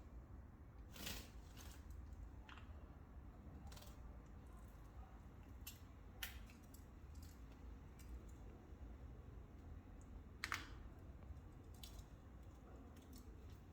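Near silence: a low steady hum with scattered faint clicks and taps, the plainest about a second in and about ten and a half seconds in.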